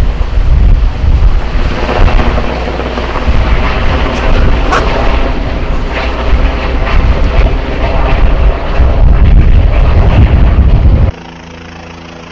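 Helicopter flying close overhead, a loud steady rotor and turbine noise with heavy low rumble. It cuts off abruptly about eleven seconds in, leaving a much quieter steady hum.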